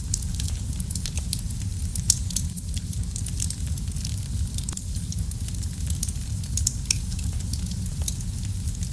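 Wood fire in a fireplace crackling: frequent sharp, irregular pops and snaps over a steady low rumble of flames, with one louder pop about two seconds in.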